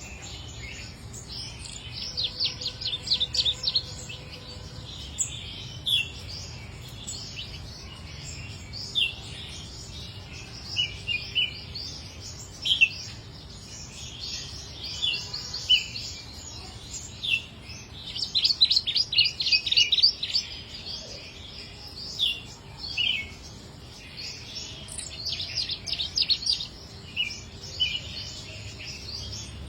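A small songbird, the chích nâu (a brown warbler), singing in high, fast trills of rapid repeated notes, with single chirps scattered between them. There are three longer trill bouts, near the start, in the middle and near the end, over a steady low background hum.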